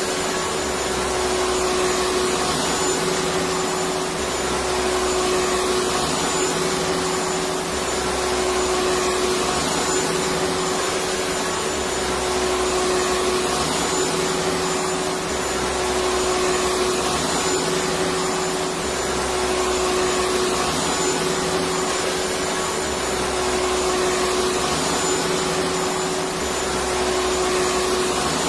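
Electric vacuum cleaner running steadily: a continuous whooshing drone with a steady hum and a faint high whine, and a low rumble that swells and fades every few seconds.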